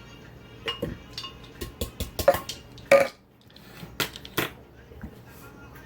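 Kitchen utensils and dishes clinking and knocking: a scattered series of sharp clicks over about four seconds, a few of them ringing briefly like a spoon striking a bowl or jar.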